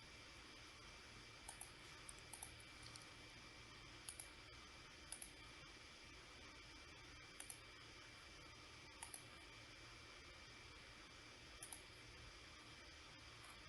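Faint computer mouse clicks, some in quick pairs like double-clicks, scattered irregularly over a low steady background hiss.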